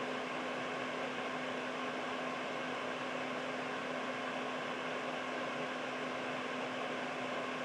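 Air purifier fan running steadily: an even whooshing rush of air with a faint steady hum underneath.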